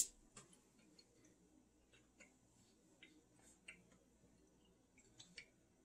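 Near silence with faint, irregular mouth clicks from chewing a soft, sticky taffy candy.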